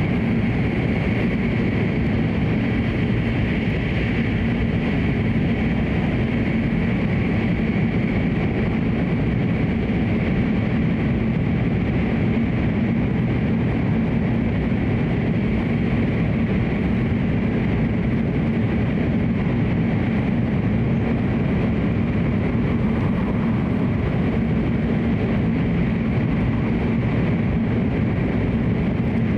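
Hokuriku Shinkansen train running steadily, its constant running noise heard from inside the passenger cabin.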